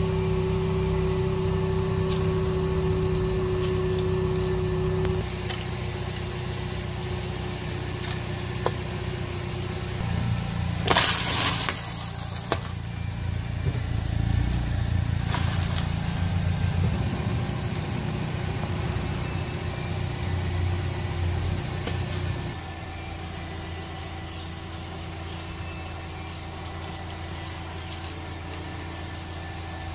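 Car engine idling with a steady low hum, its tone shifting abruptly several times. About eleven seconds in comes a short, loud burst of noise, with a briefer one a few seconds later.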